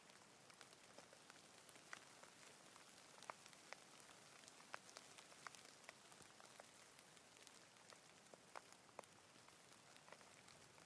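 Faint steady rain falling, with many single drops ticking sharply and irregularly close by over the soft hiss.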